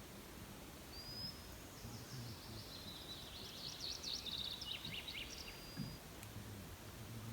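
Songbird singing faintly: a thin high whistle about a second in, then a rapid phrase of high twittering notes lasting about three and a half seconds, ending in a thin held whistle, over a steady hiss.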